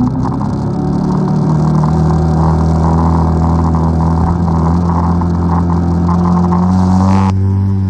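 ATV engine running under throttle, its pitch climbing a little early on and then holding steady; the throttle eases off briefly near the end.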